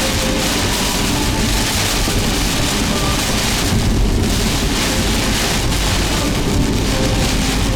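Steady rush of heavy rain and wind from an approaching typhoon, with a deep rumble underneath.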